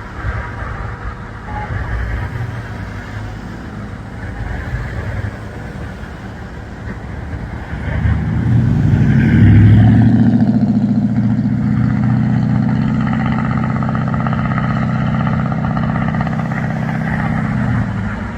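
Low street rumble, then about eight seconds in a motor vehicle's engine comes up loud close by and keeps running steadily, easing off slightly near the end.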